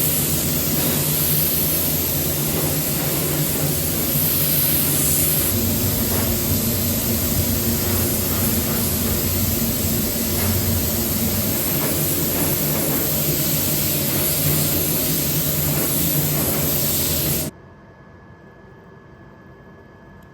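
A paint spray gun spraying acrylic 2K paint: a loud, steady hiss of air and paint over a low hum, which stops suddenly near the end.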